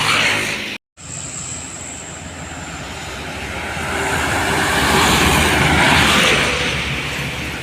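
A truck driving past on the road: after a brief dropout about a second in, its engine and tyre noise swells to a peak about five to six seconds in, then starts to fade.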